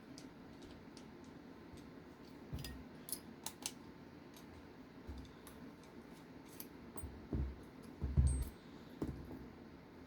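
Small metal screws, nuts and hand tools clicking and clinking on a workbench as RC car hardware is handled, with a few soft knocks as parts or tools are set down.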